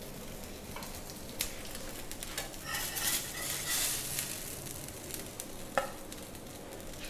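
Low, steady sizzle of oiled bread frying on a hot tawa, with a steel spatula scraping under the bread around three to four seconds in and sharp clicks of the spatula on the pan about a second and a half in and near six seconds.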